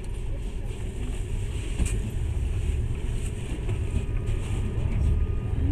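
Steady low rumble of a passenger train running along the track, heard from inside the carriage, with one faint click about two seconds in.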